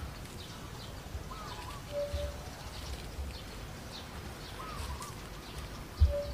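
Birds calling: a short warbling call repeats about every three seconds, with a brief single steady note twice and faint high chirps, over a few low thumps.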